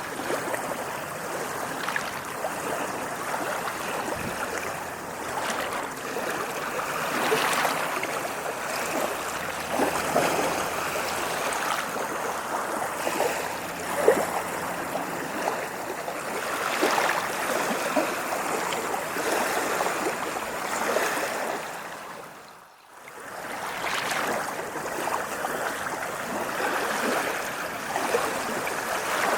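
Ocean waves washing on a shore: a steady rush of water that swells and eases, with small splashes. About three-quarters of the way through it fades almost to nothing for a moment, then comes back.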